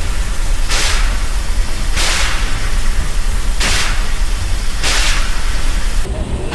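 Steam locomotive exhaust chuffing slowly: four hissing beats about a second and a half apart over a steady low rumble. Near the end the sound changes abruptly and the hiss grows duller.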